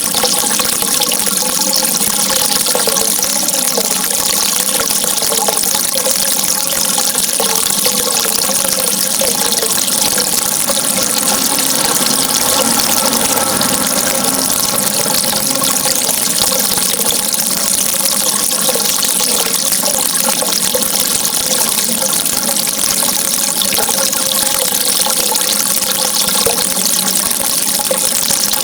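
Steady running water, loud and unbroken, with no change in level.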